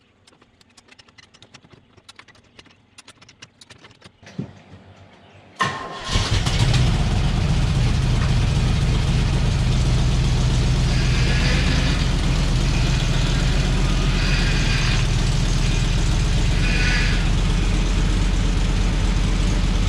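Faint clicks, then a Jeep engine starts about six seconds in and runs at a steady idle until it dies away near the end: a test start after a long repair job on the vehicle.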